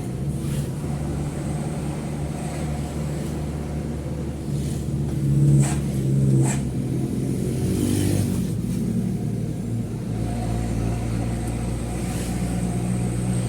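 Mitsubishi Fuso truck's diesel engine running under way, heard from inside the cab, its pitch rising and falling as the revs change. Two sharp knocks sound about halfway through.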